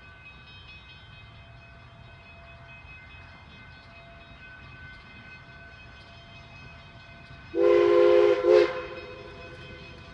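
Narrow-gauge steam locomotive whistle blowing two blasts about three-quarters of the way through, a longer one of about a second and then a short one, several pitches sounding together as a chime. A faint steady hum lies beneath.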